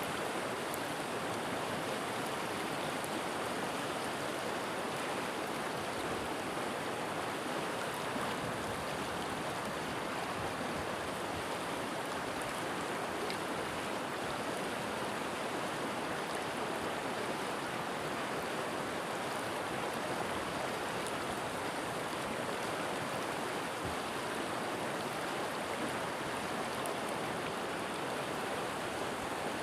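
A forest river flowing, a steady rushing of water with no change.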